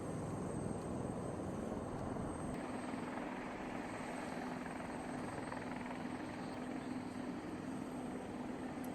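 Helicopter running, a steady engine and rotor noise that changes character abruptly about two and a half seconds in, after which a steady low hum holds.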